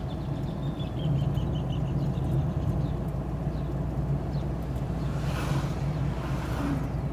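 A vehicle engine running steadily on the move, with a short run of faint high chirps about a second in and a rush of hiss about five seconds in.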